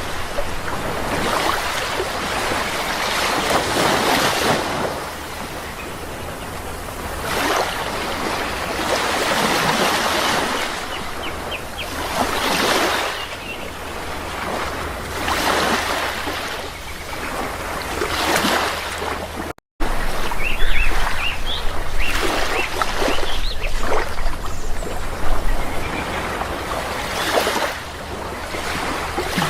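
Sea waves washing ashore, one swell after another every two to three seconds, with a few short bird calls now and then. The sound cuts out for an instant about twenty seconds in.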